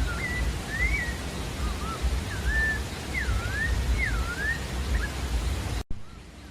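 Sabiá-da-várzea singing a phrase of about ten short, slurred whistled notes that sweep up and down, over a steady low background rumble. The sound cuts out abruptly near the end, and the background comes back quieter.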